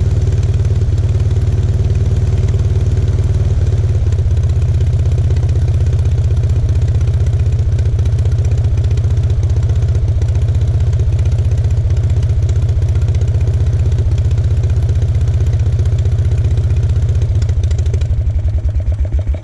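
Aeronca C2's two-cylinder aero engine running steadily on a ground run. Near the end it is shut down and the firing pulses slow as the propeller winds down.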